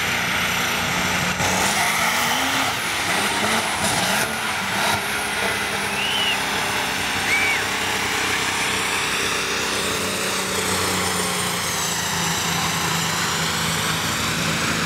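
Monster truck engine running at high revs, rising and falling as the driver works the throttle, with a few sharp knocks in the first five seconds.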